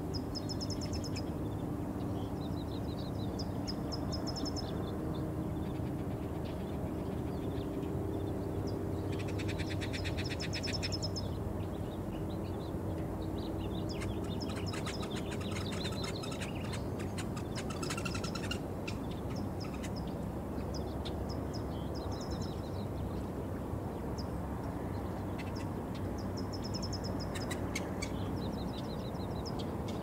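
Birds chirping in short, high, rapidly repeated phrases, with a couple of longer rattling trills midway, over a steady low background rumble of outdoor ambience.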